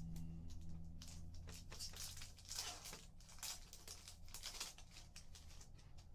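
Panini basketball card packs and cards being handled: a run of soft rustling and crinkling strokes, thickest in the middle seconds, over a low, steady hum.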